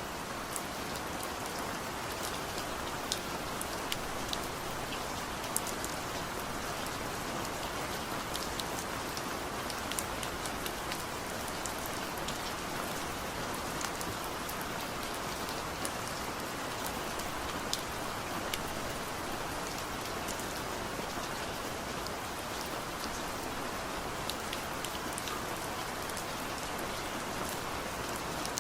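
Heavy rain falling steadily, an even hiss with many individual drops ticking sharply on a hard surface.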